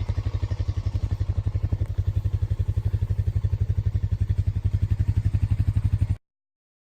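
An engine running at a steady idle, with an even low throb of about a dozen pulses a second. It cuts off abruptly about six seconds in.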